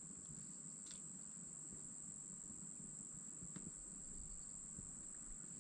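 Crickets chirping at night, a faint, steady high-pitched trill that never breaks, with a couple of faint clicks.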